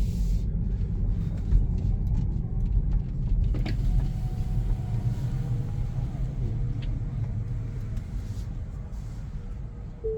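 Low, steady road and tyre rumble inside an electric Tesla's cabin as the car rolls slowly, easing off slightly toward the end, with a faint thin tone for a couple of seconds midway.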